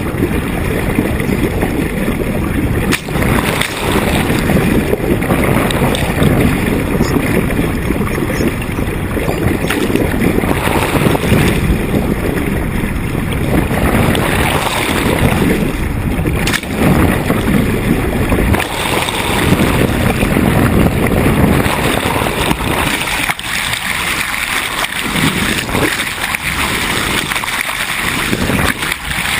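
Wind buffeting the microphone on a sailboat under way, a steady, loud rumble, with water rushing along the hull.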